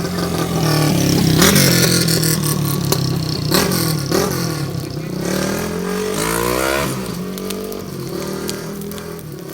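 A motor vehicle engine running, its pitch rising as it revs up about two-thirds of the way in, with a few sharp cracks early on.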